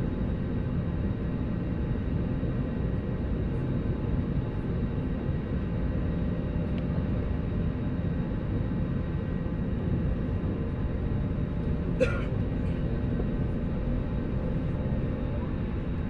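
Steady low rumble of an airliner's cabin noise after landing, from the engines and cabin air system, with a faint steady hum. A single sharp click comes about twelve seconds in.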